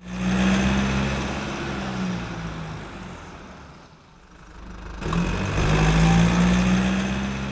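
A vehicle engine running with a steady pitch. Its sound swells loud twice: once at the start, fading over about three seconds, and again from about five seconds in.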